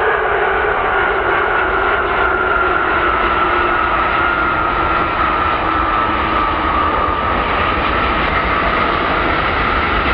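Jet airliner engines running with a steady roar and a whine that drifts slowly lower in pitch.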